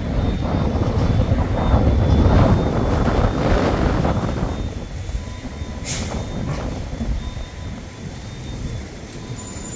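A heavy vehicle passing close by on the road, its noise swelling over the first few seconds and fading away about five seconds in.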